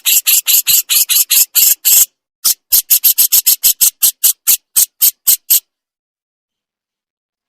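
Jenggot bird giving its harsh 'besetan' call: a fast run of short, scratchy notes, about five or six a second. There is a brief break about two seconds in, and the run stops about two seconds before the end.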